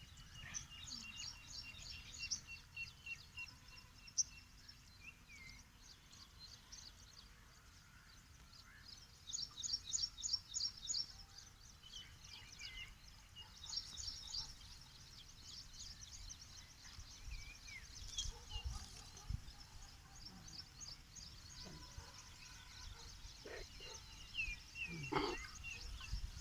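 Songbirds singing outdoors: repeated rapid high trills and chirps, loudest around ten and fourteen seconds in, over a faint low rumble of background noise. A brief lower, harsher call comes near the end.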